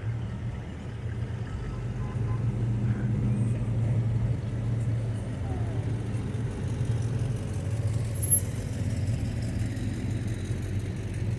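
A car engine running at low speed as a car rolls slowly past, its low hum swelling and then easing off.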